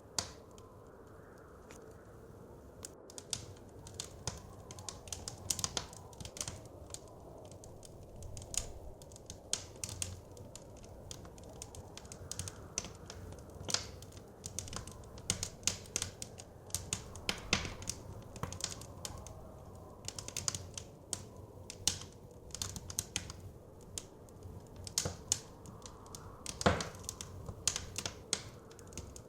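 Wood fire crackling, with irregular sharp pops and snaps over a steady low rush of wind and flame; one louder pop near the end.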